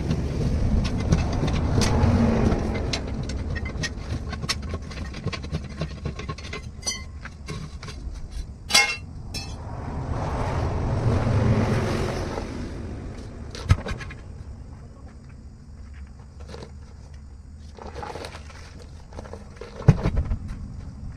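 Two vehicles passing on a road, each swelling up and fading away, over a steady low rumble. Scattered metallic clinks and knocks come from work on a truck wheel, with a few louder single knocks.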